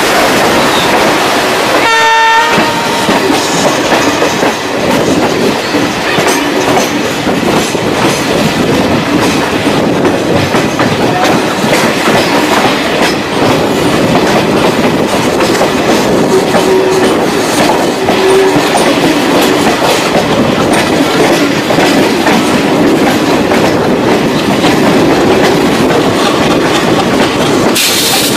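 Passenger train running, its wheels clattering steadily over the rails, with a short horn blast about two seconds in.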